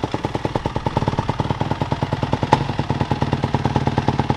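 Dirt bike engine running at a steady low speed, firing in a rapid, even pulse, with one sharp click about two and a half seconds in.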